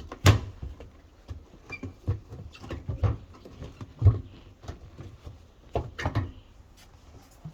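Irregular knocks, clicks and scrapes of hard parts being handled, with the loudest knocks about a quarter second in and about four seconds in.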